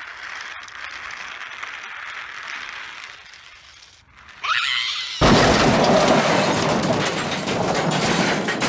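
Crash sound effect: a steady hiss, then a falling whistle-like glide about four and a half seconds in, then a sudden loud smash of breaking and shattering that carries on to the end.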